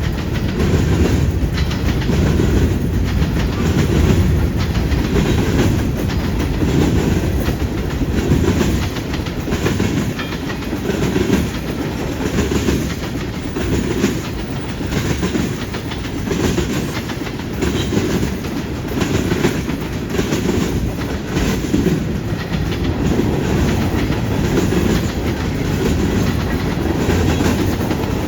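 Freight train cars rolling past at steady speed, with a constant low rumble and the clickety-clack of wheels over the rails.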